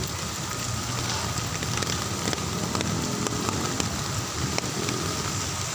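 Heavy rain falling steadily, a dense hiss dotted with many sharp ticks of individual drops striking nearby.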